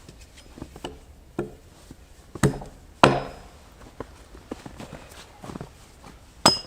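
Wood being chopped or struck: several sharp wooden knocks at uneven intervals. The loudest comes about three seconds in and rings briefly.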